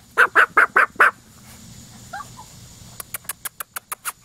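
An animal gives five loud, quick calls in a row, about five a second, in the first second. Faint chirps follow, then a fast run of sharp clicks near the end.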